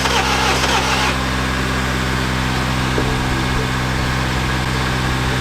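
An engine running at a steady speed, its low hum holding one even pitch throughout.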